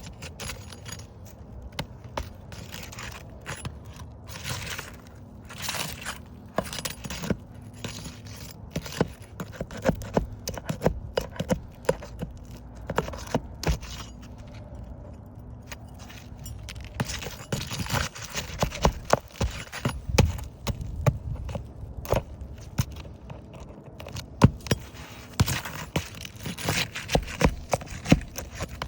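Irregular metallic clinking and scraping with scattered sharp knocks, as of hand tools and materials being handled at work.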